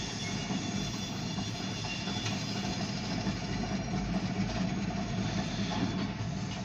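Grain hopper cars rolling past on the rails, a steady rumble with a steady low engine hum underneath, heard from inside a car.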